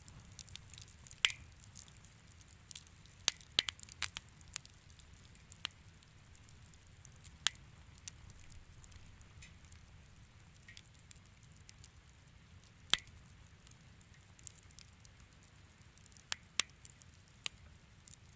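Wood fire crackling in a fireplace: irregular sharp pops and snaps, a few louder ones scattered through, over a low steady rumble of the burning fire.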